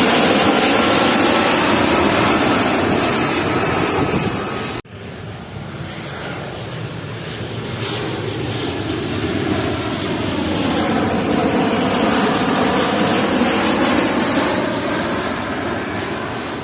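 Jet airliner passing low overhead on its landing approach: the engines' loud rush with a slowly falling whine. About five seconds in, the sound cuts off abruptly, and the engines of another low jet build up, then fade.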